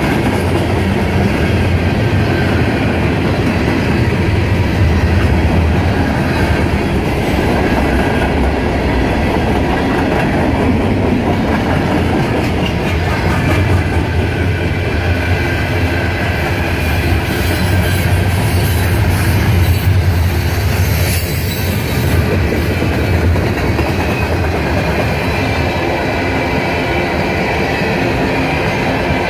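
Freight cars of a long mixed freight train rolling past close by: a steady, loud rumble and clatter of steel wheels on the rail.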